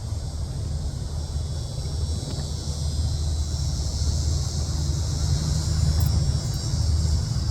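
Steady low rumble, with a continuous high-pitched insect chorus above it; no woodpecker calls stand out.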